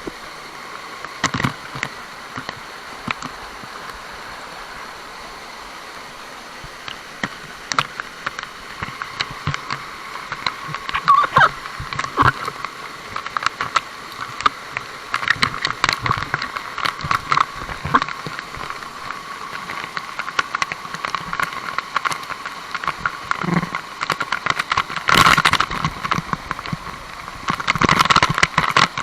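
Steady rush of water flowing down a waterfall cascade, with frequent sharp clicks and knocks scattered over it, thickest in the second half.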